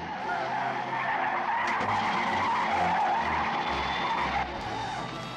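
Airliner tires skidding and screeching on the runway under hard braking just after touchdown, a steady screech over a low, uneven rumble.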